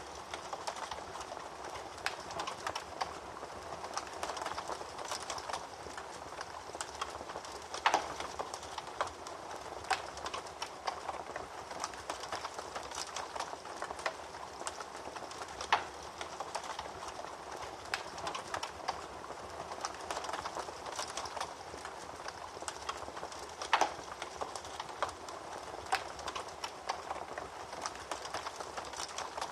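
Wood fire crackling in a fireplace: a steady hiss scattered with small snaps, and a louder pop about every eight seconds.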